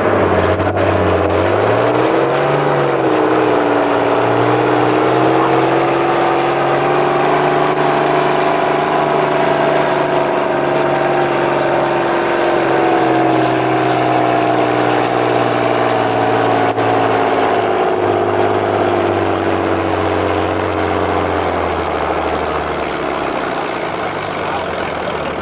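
A pulling tractor's diesel engine running hard under full load during a tractor pull. The engine pitch wavers in the first few seconds, holds steady through most of the run, then sinks gradually over the last several seconds as the pull winds down.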